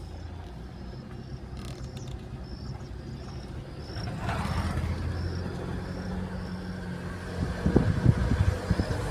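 A road vehicle's engine running steadily with a low hum, growing louder about four seconds in. Irregular low thumps come in over it during the last couple of seconds.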